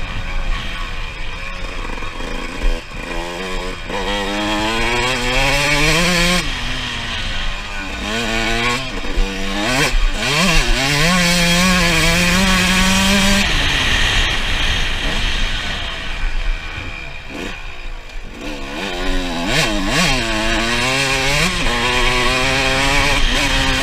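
2006 Suzuki RM 125 single-cylinder two-stroke engine revving hard, its pitch climbing and then dropping back again and again as the bike pulls through the gears and backs off, holding steady at high revs for a couple of seconds near the middle.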